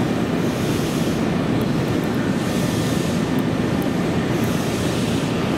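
Steady hum and hiss of a Nankai 1000 series electric train standing at a terminal platform, its air-conditioning and auxiliary equipment running, mixed with station ambience.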